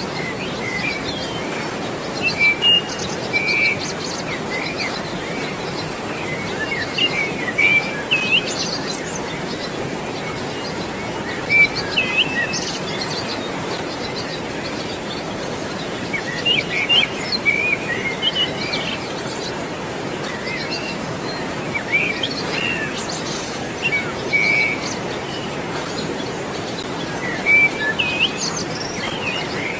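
Small birds chirping in short clusters every few seconds over a steady rush of flowing water.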